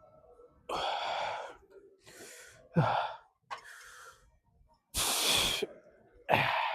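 A man breathing hard through a set of weight-lifting reps: six forceful breaths about a second apart, one starting with a short grunt.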